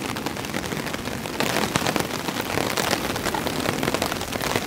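Heavy rain pattering on a tarp overhead: a dense, even hiss of many drop hits that grows heavier about a second and a half in.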